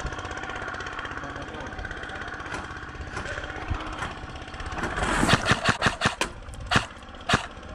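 Airsoft gunfire: a quick run of sharp snaps about five seconds in, then single snaps spaced out, over a steady engine-like drone.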